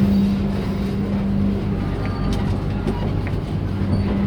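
Passenger train running: a steady low rumble with a constant hum and a few faint clicks.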